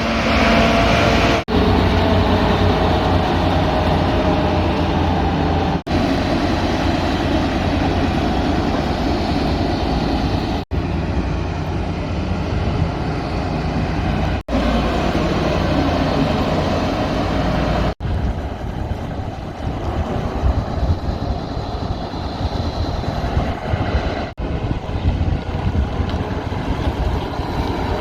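Heavy vehicle engines running with a steady low rumble, heard across several short clips joined by abrupt cuts.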